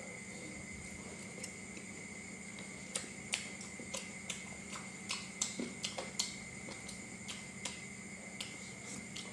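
Crunchy chewing of crispy deep-fried meatballs: a string of sharp, irregular crackles and clicks, thickest about three to six seconds in, over a faint steady electrical hum.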